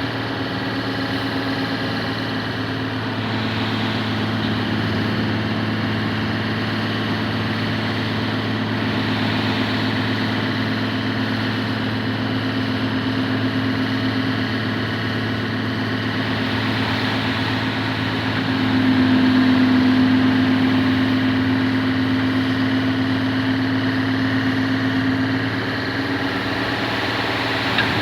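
Heavy dump truck's diesel engine running steadily. About two-thirds of the way through it grows louder and a little higher in pitch, then drops back shortly before the end.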